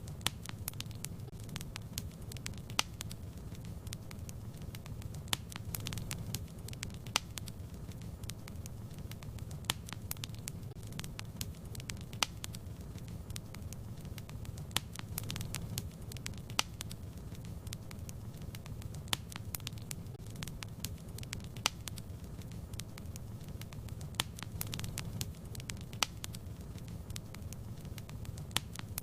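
Fire burning in a fireplace, crackling with irregular sharp pops over a steady low rumble of flame.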